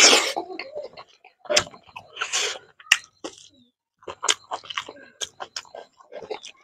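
A man eating fish curry and rice by hand: chewing and biting with wet mouth clicks. A loud noisy mouthful comes right at the start, and a quick run of clicks near the end.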